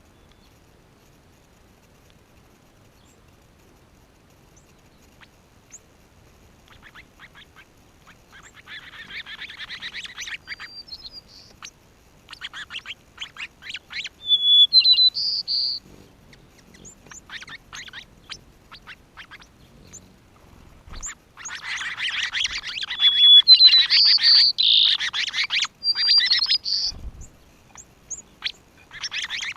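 Birds calling, with bursts of rapid chattering and short high whistled notes. The calling starts several seconds in and is loudest in two spells, near the middle and in the last third.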